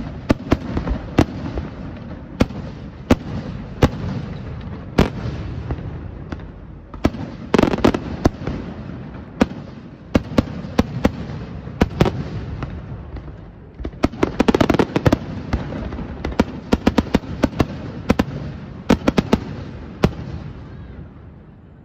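Aerial firework shells bursting in a display: a steady run of sharp bangs over a continuous wash of echoing sound, with dense rapid volleys about seven and fourteen seconds in, thinning out near the end.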